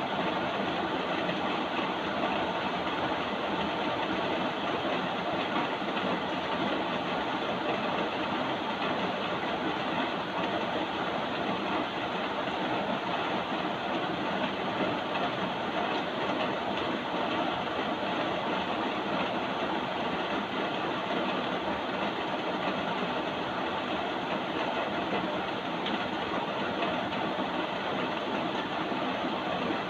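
Steady rain, an even hiss with no breaks or separate drips.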